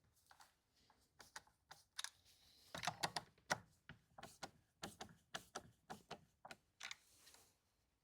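Faint, light clicks and taps of plastic and metal parts being handled on a chainsaw's aftermarket recoil starter assembly and its housing screws. A quick cluster of louder clicks about three seconds in, then a fairly even series of clicks, about four a second.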